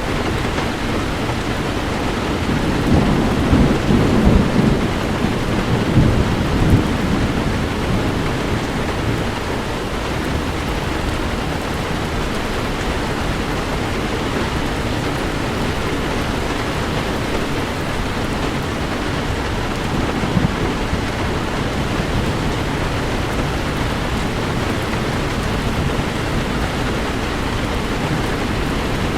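Heavy rain falling steadily, with a low rumble of thunder swelling about three seconds in and fading a few seconds later.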